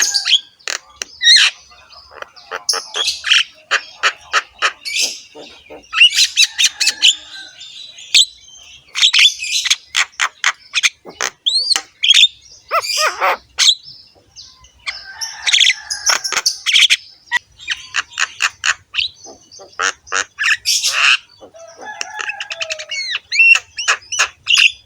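Javan myna (jalak kebo) singing nonstop in a rough, harsh voice: rapid clicking chatter mixed with grating notes and short whistled glides.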